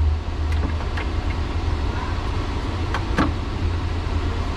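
Steady low machine hum with a few light clicks.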